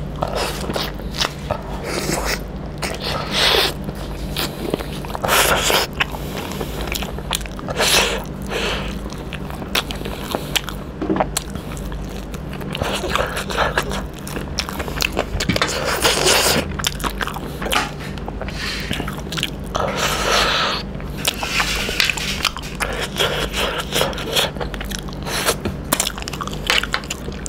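A person biting and chewing fried chicken innards close to the microphone, in irregular short bursts of chewing noise. A steady low hum runs underneath.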